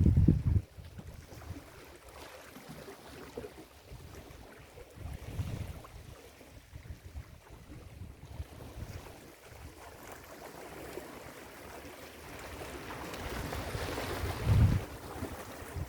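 Ocean surf washing on a beach, the hiss of a wave building toward the end, with low gusts of wind on the microphone at the start, about five seconds in and near the end.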